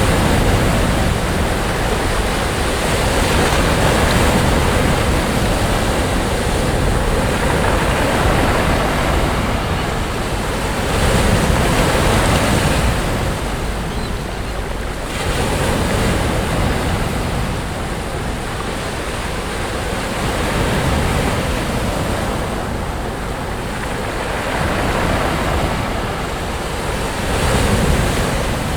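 Sea waves breaking on a beach, the surf swelling and ebbing every few seconds in a continuous wash.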